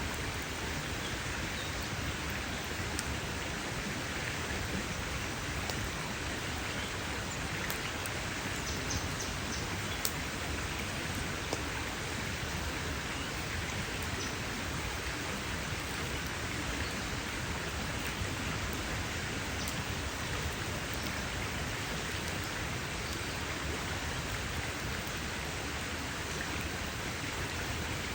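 Campfire burning: a steady crackle of burning wood with occasional sharper pops.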